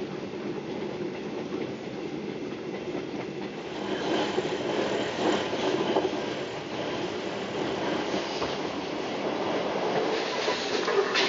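A KTM Intercity sleeper coach running on the rails, heard from inside the coach: a steady rumble of steel wheels on track with a few clacks over rail joints. It gets louder about four seconds in.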